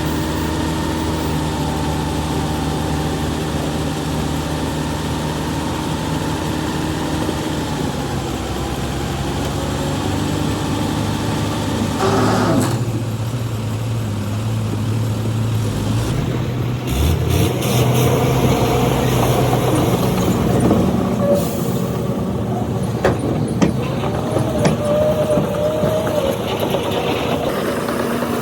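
Heavy earthmoving machinery running at a steady engine note, with a short hiss about twelve seconds in. In the second half, irregular knocks and clanks sound over a shifting engine rumble.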